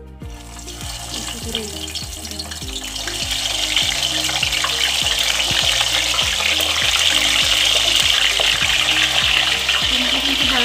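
Breaded chicken nuggets frying in hot oil, the sizzle building over the first few seconds as the pieces are dropped in one by one, then a steady loud sizzle.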